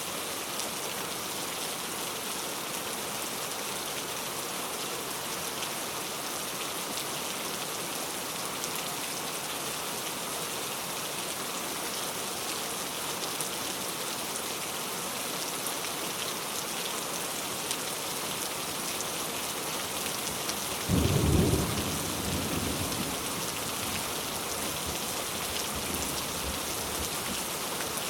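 Heavy rain falling steadily. About three quarters of the way through, a clap of thunder breaks out, loudest for about a second, then rumbles off over several seconds.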